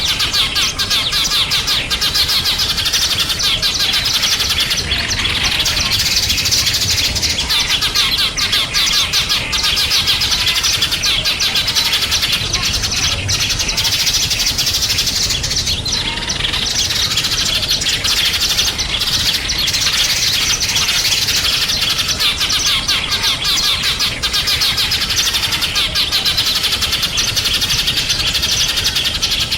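A dense, unbroken chorus of small songbirds chirping and twittering rapidly, many high calls overlapping at a steady level.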